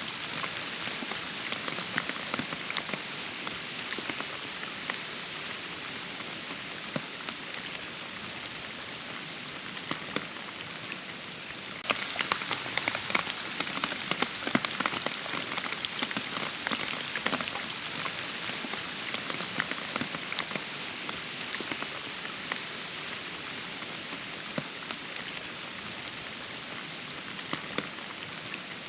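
Steady rain, with many distinct close drops ticking over an even hiss. About twelve seconds in, the drops become abruptly louder and denser.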